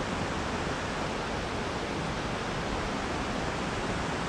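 Steady rush of flowing creek water, the stream running high.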